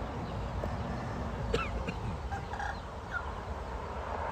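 Wind buffeting the microphone, with a few short calls from domestic fowl, likely chickens, between about one and a half and three seconds in.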